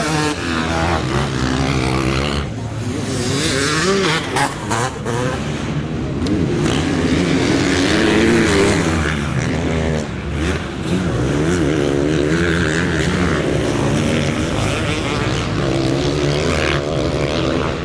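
Several motocross bikes racing on the track, their engines revving up and down over each other as riders work the throttle through the corners and jumps.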